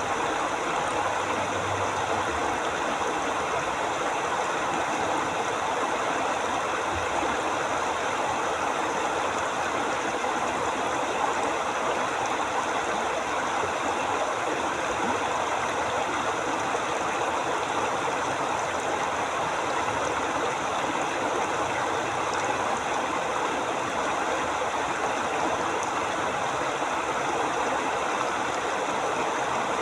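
A forest river flowing: a steady, even rush of water.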